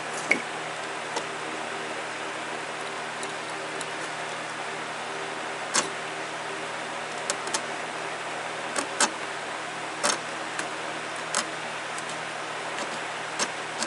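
Wood chisel paring white oak by hand: short, sharp cutting clicks about a dozen times at uneven intervals over a steady low hum.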